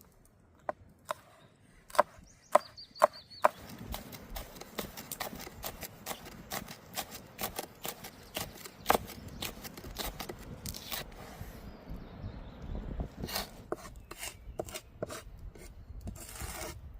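Knife chopping food on a wooden cutting board: a handful of separate chops, then a long stretch of quicker, denser chopping, with a few more scattered chops near the end.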